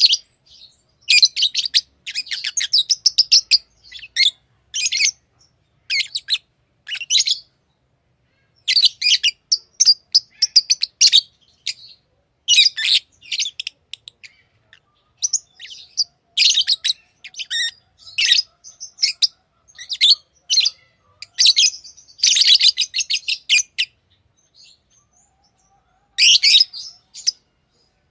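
Pet lovebirds chirping in quick, shrill bursts of many rapid chirps, with short pauses between the bursts.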